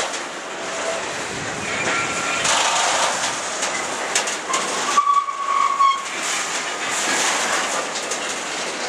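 Freight train of rail-carrying flat wagons rolling past close by, its wheels clattering and rumbling over the track. Short high squeals come from the wheels, the longest lasting about a second around the middle.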